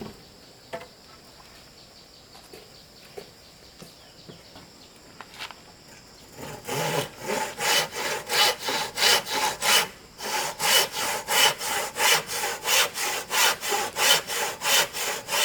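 Hand saw cutting through wood in quick, even strokes, about three a second, starting about halfway through with a short pause, over a steady drone of insects.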